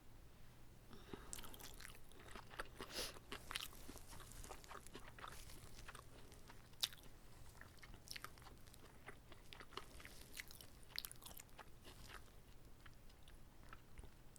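Close-miked chewing and biting of a whole kimbap roll: soft crunches and wet mouth clicks at an irregular pace, with one sharper click about seven seconds in.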